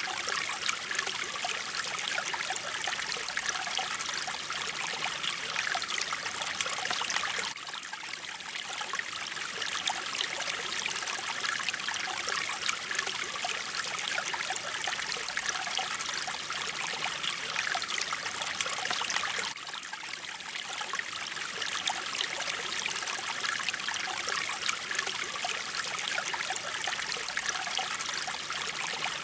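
Flowing mountain stream water, a continuous rush and splash. It drops briefly in level twice, about a quarter of the way in and about two-thirds of the way through.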